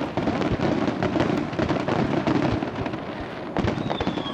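Starmine fireworks barrage: aerial shells bursting in quick succession, a dense run of booms and crackles with no pause.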